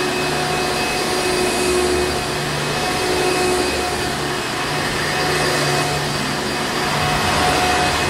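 Hoover Encore Supreme upright vacuum cleaner running continuously: a steady rushing of air with a motor hum and whine held on a few fixed pitches, the level swelling and easing slightly now and then.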